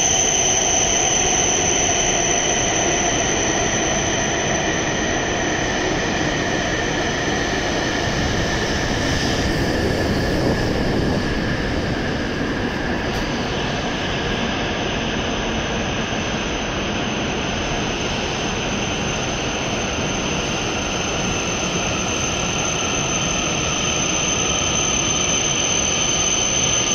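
E7-series Shinkansen trainset pulling slowly into the platform and braking towards a stop, a steady rumble under a high-pitched whine, with fainter tones that slowly fall in pitch as the train slows.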